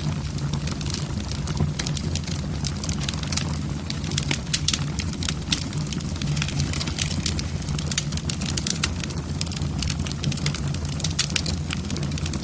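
Logs burning in a fireplace, crackling with many small irregular pops and snaps over a steady low rumble of the fire.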